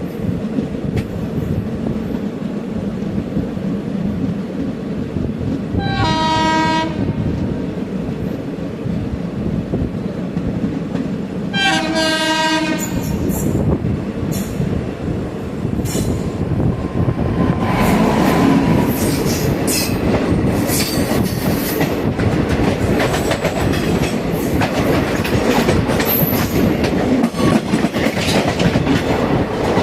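Indian Railways train running with a steady rumble of wheels on track, sounding its horn twice in short blasts about six seconds apart. About halfway through, the clickety-clack of the wheels grows louder and busier.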